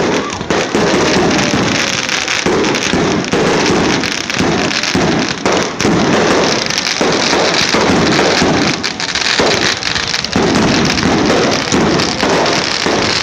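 Fireworks going off in a dense, unbroken barrage of rapid crackles and bangs.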